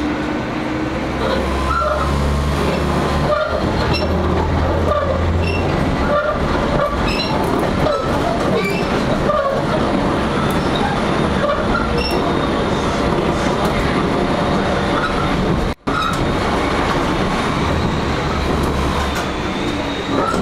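Diesel railcar heard from inside the passenger cabin while running: the engine drones low and gets louder for several seconds near the start and again near the end. Wheels click over rail joints, with short high squeals now and then.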